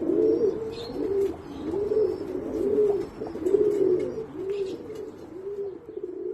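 Several Iranian domestic pigeons cooing over and over in overlapping, rolling calls, with faint high chirps above them.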